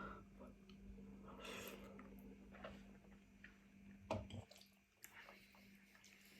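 Faint wet mouth sounds of eating spicy noodles and rice cakes: soft chewing and slurping with a few small clicks, a little louder about four seconds in, over a steady low hum.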